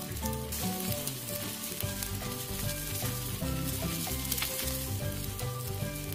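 Marinated chicken sizzling as it grills over hot charcoal, with background music carrying a melody and bass line underneath.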